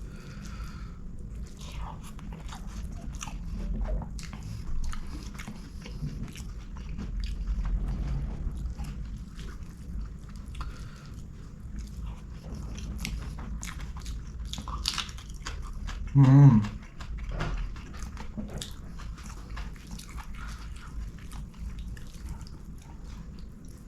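Close-miked chewing and biting of string hoppers with curry, with many small wet mouth clicks and crunches. About two-thirds of the way through there is one short, loud voiced sound from the eater.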